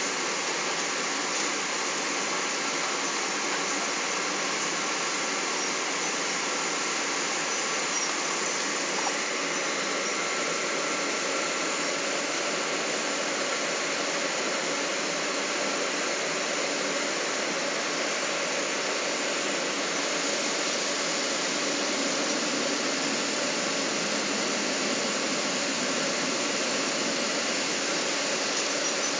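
Steady cabin noise inside a Boeing 777: a constant rush of airflow and engine noise that holds at an even level, with a faint steady whine.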